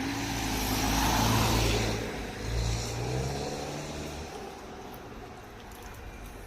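A car driving past close by, its engine and tyres loudest about a second in, then fading away over the next few seconds.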